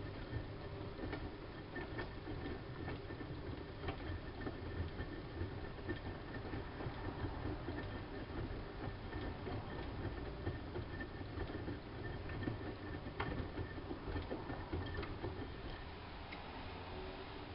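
Siemens Siwamat IQ washing machine running with its drum turning: a steady low rumble with a faint high tone and scattered light clicks and ticks.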